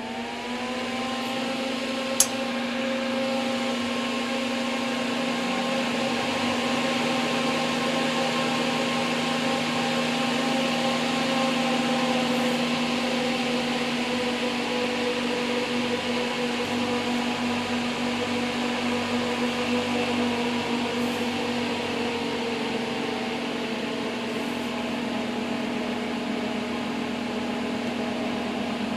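Solder fume extractor fan, all-metal, at full speed with the filter removed: its whine rises as it spins up at the start, then settles into a steady whir of rushing air over a motor hum and several steady tones. A sharp click comes about two seconds in, and the tones sag slightly lower in pitch in the later part.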